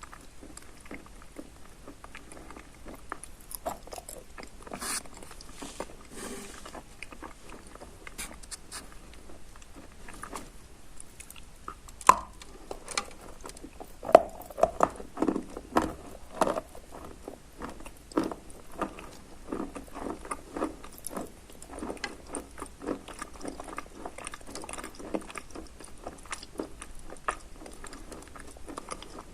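Biting and chewing of soaked Barsuk eating chalk mixed with crumbs of Lazurit chalk: a wet crunch of many irregular crunches and clicks. The loudest, thickest crunching comes a little before the middle.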